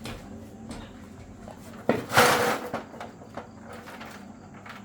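A click, then a short, loud clattering scrape about two seconds in, followed by a few lighter knocks.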